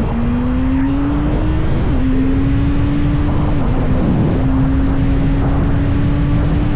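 2024 Kawasaki ZX-6R's 636 cc inline-four engine pulling through the gears. The pitch climbs, drops back at gear changes about two and three and a half seconds in, then holds steady at a cruise, over a steady rushing noise.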